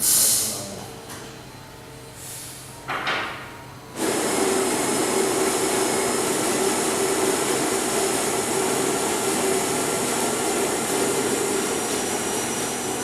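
A few brief rustling bursts, then about four seconds in an electric coffee grinder switches on abruptly and runs steadily, grinding beans for cupping.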